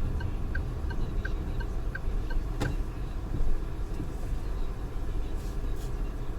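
Geely Atlas cabin noise: a steady low rumble from the road and engine. A turn-signal indicator ticks about three times a second, stops about two and a half seconds in, and is followed by one sharp click.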